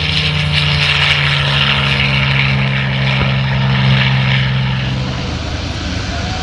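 North American P-51D Mustang's Packard Merlin V-12 engine running at power, a loud, steady, deep propeller drone. About five seconds in, the pitched engine tone drops out, leaving a broader, slightly quieter rumble.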